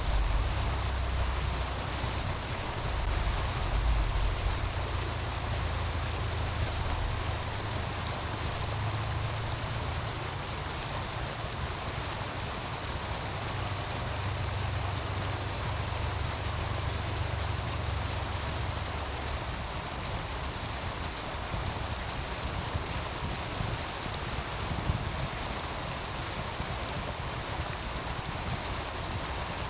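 Meltwater stream rushing in a steady hiss, with sharp crackles and pops from a wood fire scattered throughout. A low wind rumble on the microphone fades out about two-thirds of the way in.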